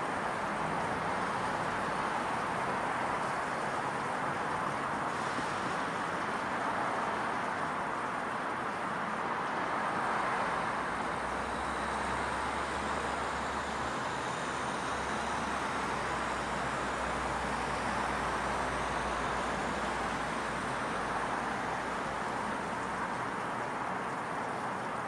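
Steady hum of distant road traffic in a residential neighbourhood, with a low engine rumble that comes in a little before halfway and fades some ten seconds later as a vehicle passes closer.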